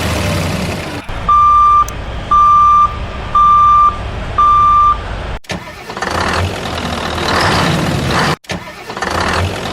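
Vehicle reversing alarm beeping four times, about one beep a second, over a low engine rumble. Then, after a sudden cut, a heavy vehicle engine runs with a pulsing rise and fall.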